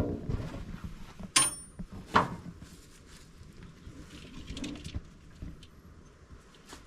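Metal clanks and knocks from hand-tool work on a combine header: a sharp knock at the start, a ringing metallic clank about a second and a half in, another knock just after two seconds, then fainter taps.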